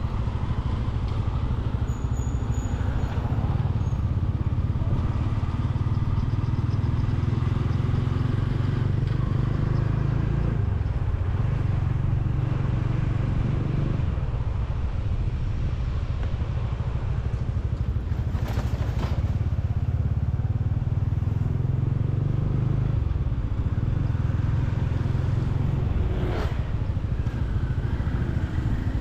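Motorcycle engine running steadily under way, heard from the bike itself, its low note dropping briefly a few times. Two short sharp noises stand out, about two-thirds of the way through and again near the end.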